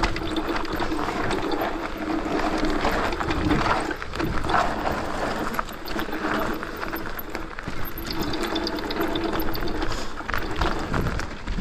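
Raw on-bike sound of a mountain bike riding down a rough trail: tyres rolling and crunching over dirt and rocks, with frequent knocks and rattles from the bike. A steady low buzz runs underneath, dropping out briefly about four seconds in and again near the end.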